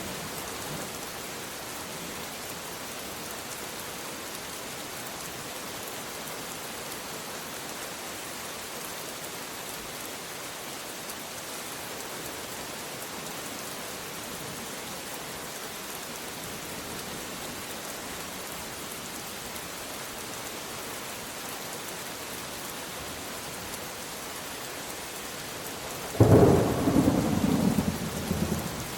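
Steady rain falling, an even hiss. Near the end a loud thunderclap breaks in suddenly and rumbles for about two seconds.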